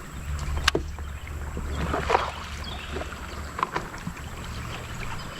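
Water sloshing and splashing against a kayak, with a sharp knock just under a second in. A low wind rumble on the microphone stops about two-thirds of the way through.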